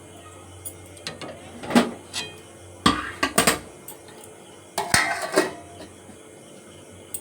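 Kitchen cookware and utensils clattering: a few clusters of sharp metal clinks and knocks, about 2, 3 and 5 seconds in, over a low steady hum.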